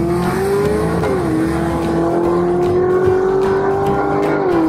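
Car engine sound effect accelerating through the gears: the engine note climbs, drops sharply at a gear change about a second in, climbs slowly again and drops at another shift near the end.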